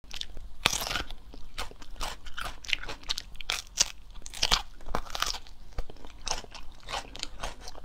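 Raw bitter melon being bitten and chewed: a run of crisp, irregular crunches.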